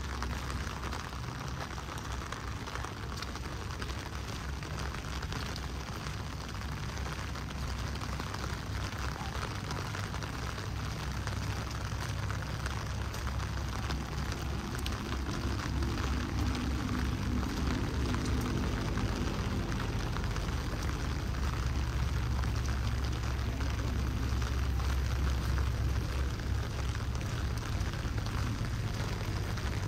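Heavy rain falling steadily, with a low rumble underneath and a faint hum coming in about halfway through.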